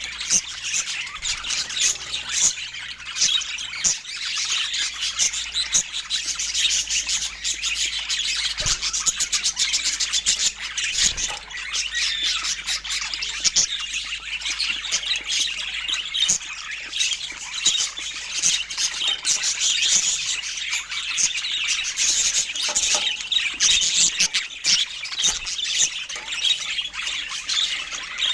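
Budgerigars chattering continuously, a dense mix of quick chirps, warbles and squawks.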